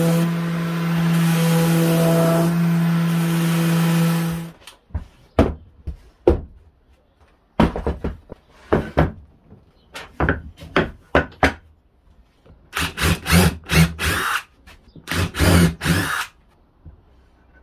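A power tool motor running steadily, cut off about four and a half seconds in. Then comes a run of short, irregular bursts from a power drill working wood.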